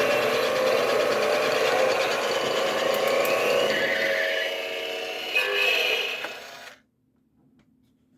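Toy Road Rippers City Service Fleet tow truck driving forward, its built-in speaker playing electronic sound effects over the rattle of its motor and wheels. The sound cuts off abruptly about two-thirds of the way through, when the toy stops.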